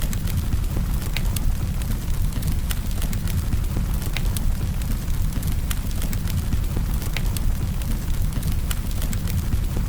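Campfire burning: a steady low rumble of flames with irregular crackles and pops from the burning wood, several a second.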